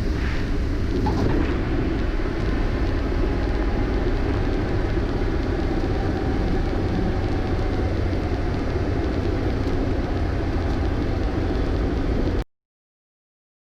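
Cockpit noise of a Cessna 152 in the flare and landing roll: the four-cylinder Lycoming engine at idle power under a steady rush of wind, heavy in the low end. It cuts off suddenly about a second before the end.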